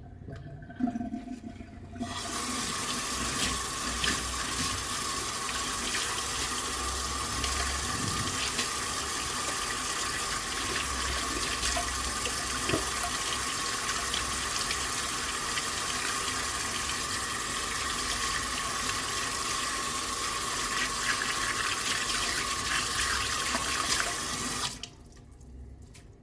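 Kitchen tap turned on about two seconds in, water running steadily into the sink, then shut off suddenly near the end. A few small knocks come just before the water starts.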